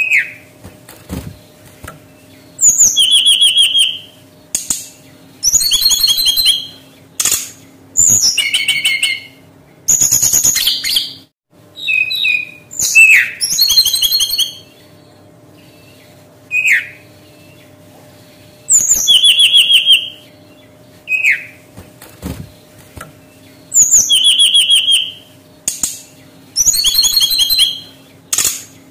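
Brown-chested jungle flycatcher singing: short, fast trilled phrases of about a second each, high-pitched and repeated with short pauses, some opening with a falling slurred note. A few brief knocks sound under the song.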